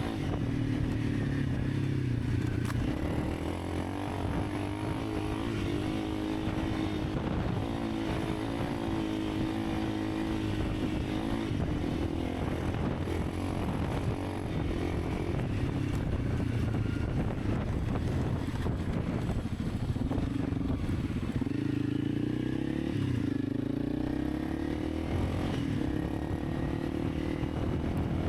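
Honda CRF300 Rally's single-cylinder four-stroke engine running under way, its note rising and falling with the throttle as the bike is ridden.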